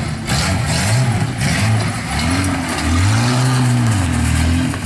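Holden VR Commodore's Buick V6 engine revving up and down again and again during a burnout, held at high revs for the last part, over the hiss of spinning tyres.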